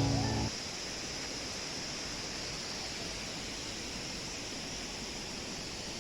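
Background music cuts off about half a second in, leaving the steady rushing noise of a river's flowing water.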